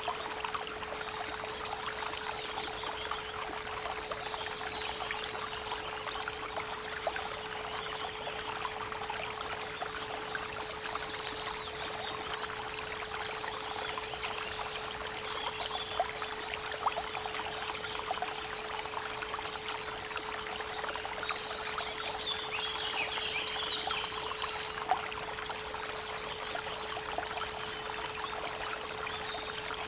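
Steady 432 Hz pure tone held unbroken beneath the continuous rush of a creek, with songbirds calling in short high trills every few seconds.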